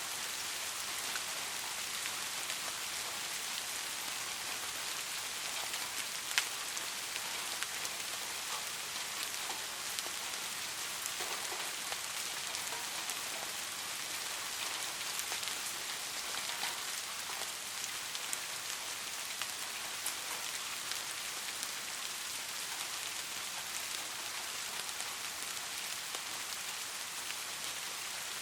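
Soft rain falling steadily: an even hiss of rain on surfaces with scattered individual drop ticks, one sharper drop about six seconds in.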